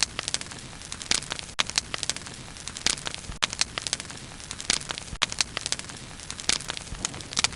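Burning bonfire: wood crackling and popping in quick, irregular snaps over a steady low hiss of flame.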